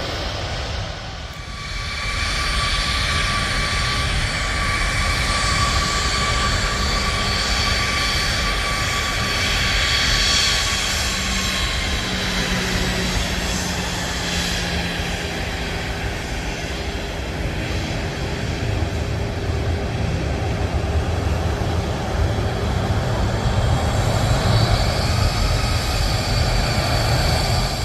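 Jet airliner passing low overhead on its landing approach: a steady engine whine over a deep rumble, the whine dropping a little in pitch about halfway through as it goes by.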